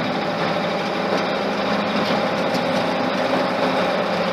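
Freshly built Ford flathead engine running steadily as the truck drives on its first run round the block, heard from inside the cab.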